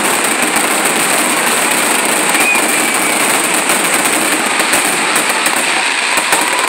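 Dense fireworks barrage: many shells bursting at once with continuous crackling, a loud unbroken roar with no gaps between the bangs.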